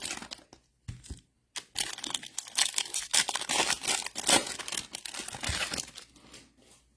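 Foil trading-card pack wrappers being torn open and crinkled by hand, a dense irregular crackling with a brief pause about a second and a half in, dying away near the end.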